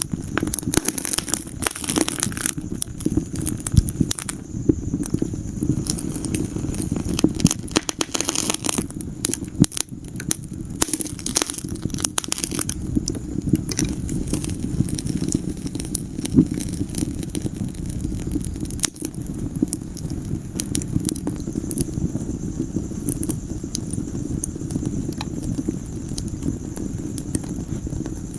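Wood fire in a fireplace crackling and popping over a steady low rumble of flames, with thicker runs of crackles about two seconds in and again around ten seconds.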